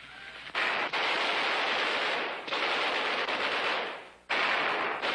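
Machine-gun fire in three long bursts, the first starting about half a second in.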